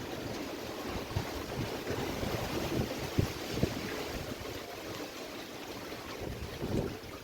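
Strong gusty wind ahead of rain, with rushing noise and low buffeting thumps on the microphone as the gusts hit.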